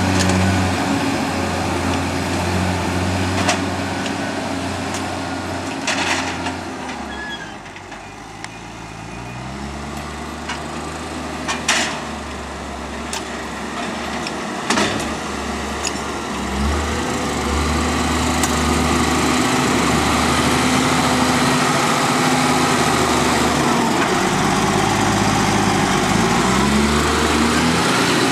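Tractor engine running, its revs falling away about seven seconds in and climbing back up a few seconds later, then dipping and rising again near the end. A few sharp knocks sound along the way.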